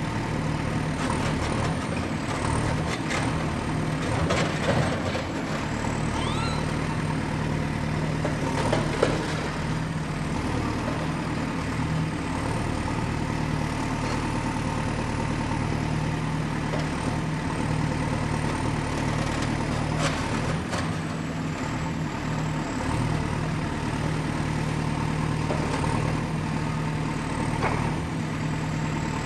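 Excavator's diesel engine running steadily under load, with scattered metallic clanks and clicks from the machine working. The clanks come most often a few seconds in and again around the middle.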